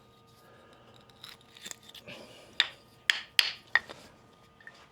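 Light clicks, knocks and rubbing from handling wood and tools at a lathe, with about five sharper knocks in the second half.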